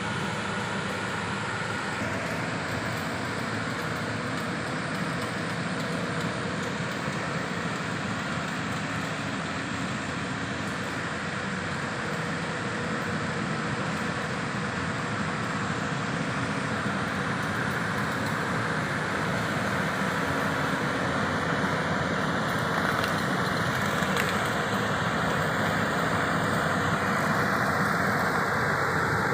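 Turbo T600 engine-driven power sprayer running steadily, its engine and air blast making a continuous rushing noise. It grows somewhat louder in the last third.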